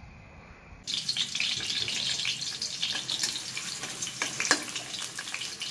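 Whole garlic cloves and shallots frying in hot oil in a wok: a dense sizzle and crackle that starts abruptly about a second in, with a few sharper clicks near the end.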